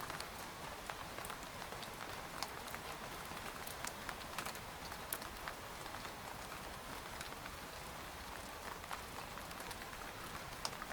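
Steady rain falling on a tent, a continuous hiss with many separate drops tapping irregularly on the fabric.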